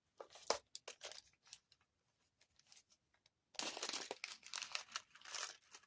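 Small plastic bead baggies being handled: a few light clicks and rustles, a short pause, then a longer spell of crinkling starting a little past halfway.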